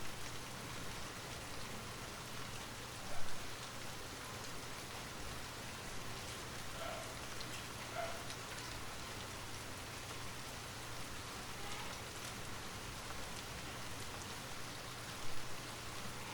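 Light rain falling steadily, a soft even hiss with individual drops tapping on a surface. Two louder drop hits stand out, about three seconds in and near the end.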